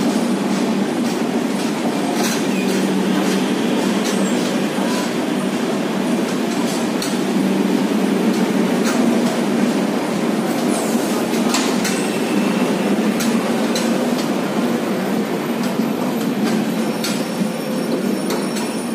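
Express train passenger coaches rolling past at speed: a steady, loud rumble of wheels on rails, with repeated clicks as the wheels cross rail joints and a faint high wheel squeal near the end.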